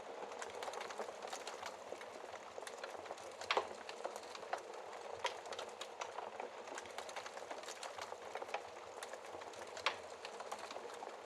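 Burning logs in a fireplace crackling: a steady hiss with frequent small irregular pops, a louder pop about three and a half seconds in and another near the end.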